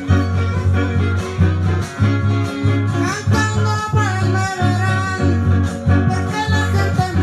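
Live music from a string trio: guitars play a steady, rhythmic bass-and-strum accompaniment while a melody line glides above it.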